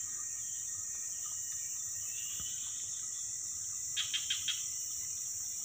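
Steady, high-pitched chorus of forest insects such as crickets. About four seconds in, a quick run of about six chirps cuts in and ends within half a second.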